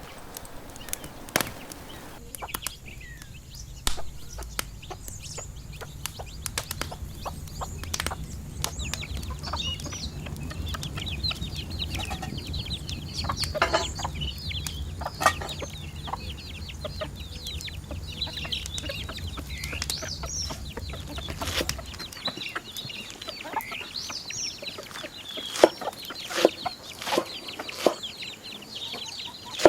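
Farmyard chickens clucking in many short calls, with scattered sharp knocks. A low steady hum runs underneath and stops about three-quarters of the way through.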